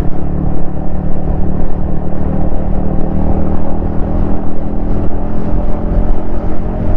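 Yamaha XSR155's single-cylinder 155 cc engine and exhaust running under way at a fairly steady speed, with little change in pitch.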